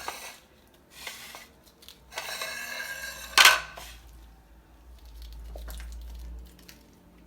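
Dishes and kitchen utensils being handled: scattered clinks and knocks, with one loud clatter about three and a half seconds in.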